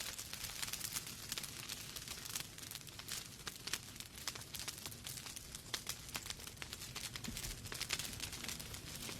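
Wood fire burning in a fireplace: a steady soft hiss with many small irregular crackles and pops.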